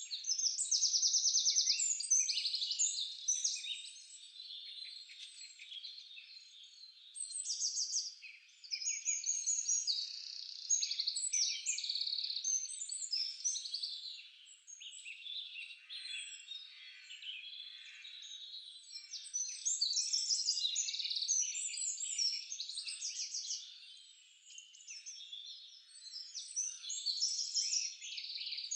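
Several songbirds singing at once in a dense chorus of chirps and fast trills, with a louder trilled phrase breaking through every few seconds.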